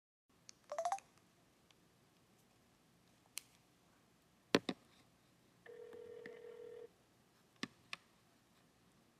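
Telephone line as a call is placed: a quick flurry of dialing tones about a second in, a few sharp clicks, then the ringback tone sounding once for about a second while the call rings through.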